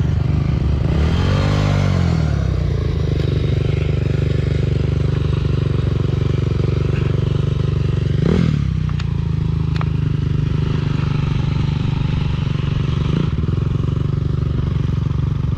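Honda CRF230F single-cylinder four-stroke dirt bike engine running steadily while riding on a trail, with some clatter. About a second in the engine pitch rises and falls, and there is another quick rise and fall a little past halfway.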